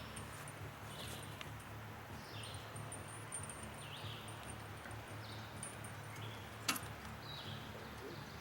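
A bird repeats a short, falling call about once a second over a low steady hum, with a single sharp click about two-thirds of the way through.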